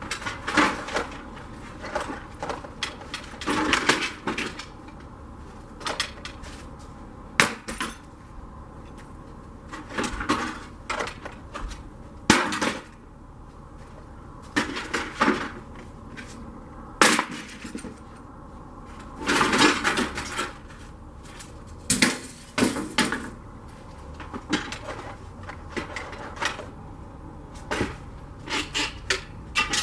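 A series of irregular knocks and clatters of hard objects being handled, some single sharp hits and some short clusters.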